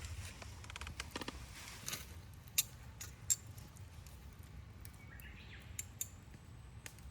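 Campfire wood crackling, with irregular sharp pops (the two loudest about two and a half and three and a quarter seconds in) over a low steady rumble.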